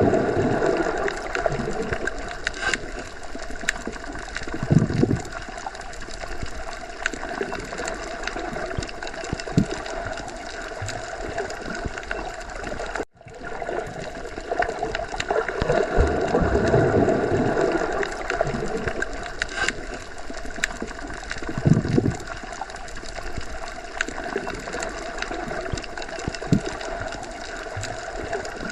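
Underwater sea ambience: a steady watery hiss and rumble with swelling gurgles and bubbling surges. The sound cuts out for a split second about 13 seconds in and then starts over, a looped recording.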